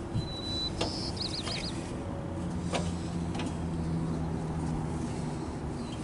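A vehicle engine idling with a steady low hum, with a few sharp metallic clicks and a brief high chirping in the first two seconds.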